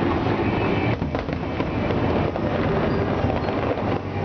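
Aerial fireworks display: a rapid, continuous barrage of shell bursts and crackling, with no break.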